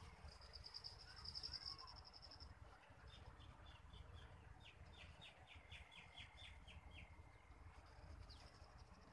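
Faint birdsong: a fast high trill for the first two seconds or so, then a run of about a dozen short, downward-sweeping notes, with the high trill returning near the end, over a low steady rumble.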